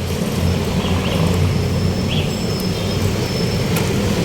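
Heavy road traffic, with a large vehicle's engine running steadily close by and a few short, high squeaks.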